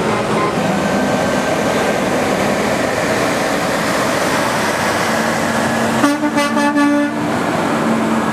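Heavy trucks rolling by with their engines running, and a truck horn sounding a rapid string of short honks for about a second, near the end.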